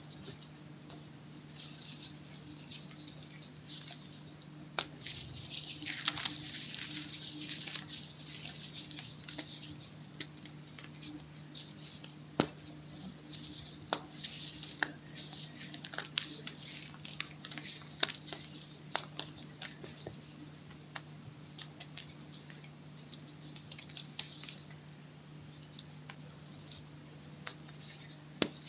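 Close-miked chalk crunching and crumbling: a continuous dry crackle broken by many sharp snaps, over a steady low hum.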